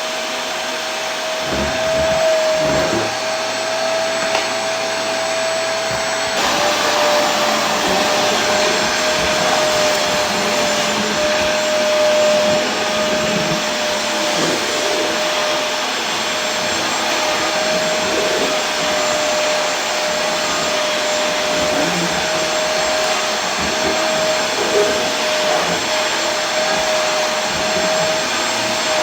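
Vacuum cleaner running steadily: a broad rushing hiss with a constant motor whine through it. About six seconds in, the whine drops slightly in pitch and the tone shifts a little.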